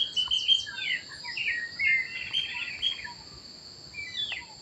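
Chopi blackbird (pássaro preto) singing: a run of varied whistled notes with a quick chattering trill in the middle and a sharp falling note near the end, over a steady high insect drone.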